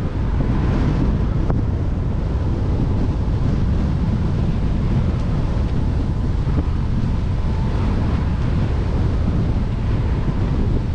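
Strong wind buffeting the microphone of a camera on a moving bicycle: a steady, heavy low rumble.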